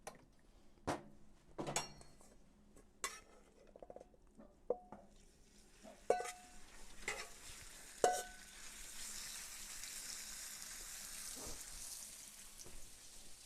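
Cornstarch-coated chicken cubes going into hot oil on a flat-top griddle for a shallow fry: sharp metal utensil clinks and taps, several a second or more apart, through the first half, while the oil's sizzle builds up and then holds steady.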